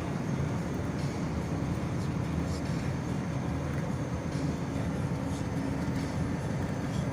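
Steady low rumble of a vehicle being driven along a road, engine and tyre noise heard from inside the cab, with a few faint ticks.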